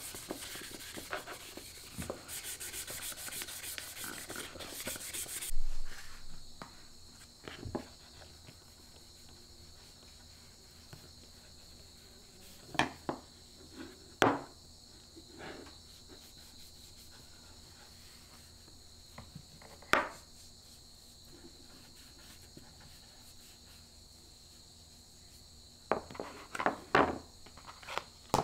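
A tool scraping along wood for about five seconds, then scattered single knocks of wood, with a cluster near the end, over a steady high hiss.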